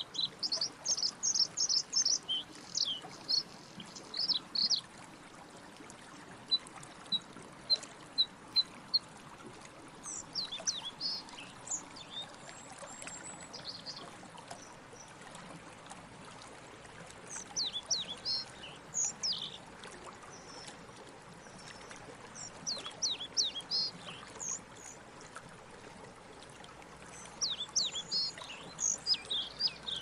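Small birds chirping, rapid runs of short high notes that come in several bursts with pauses between, over a faint steady hiss.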